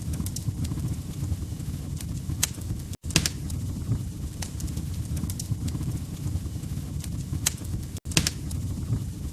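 Log fire crackling: scattered sharp pops and snaps over a steady low rumble of the flames. The sound cuts out for an instant twice, about three and eight seconds in.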